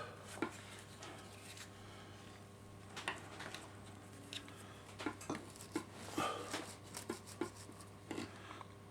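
Faint scratching and clicking of a tool cutting a gap through the copper on copper-clad sleepers of N gauge track, isolating the two rails so they will not short. The strokes are scattered at first and come thick and fast over the second half, over a steady low hum.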